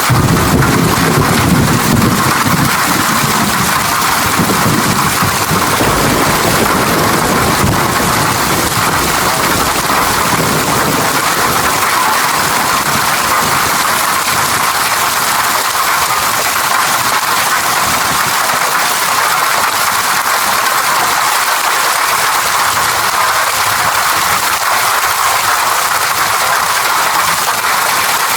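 Steady heavy rain, an even hiss of falling water. A low rumble of thunder runs under it for about the first twelve seconds and then dies away.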